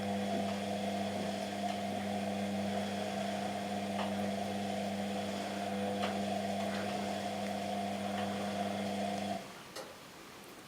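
Washing machine motor humming steadily as it turns the drum, then stopping abruptly about nine seconds in, as the machine pauses between drum turns during the wash cycle. A few faint ticks follow.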